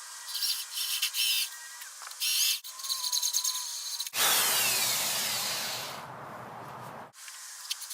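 Power tool cutting a recess into plywood, heard in short bursts that stop abruptly. About four seconds in comes a louder, fuller stretch of cutting lasting about three seconds.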